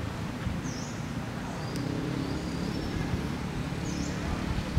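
A bird's short high call, heard twice, over a steady low outdoor rumble.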